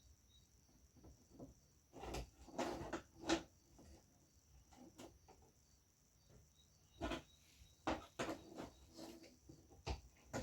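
Scattered light clicks, taps and rustles of hands handling TV parts and tools, coming in a few short clusters.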